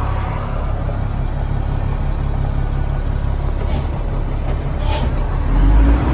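Military six-wheel-drive truck's diesel engine running and pulling harder, louder about five seconds in, with two short air hisses partway through.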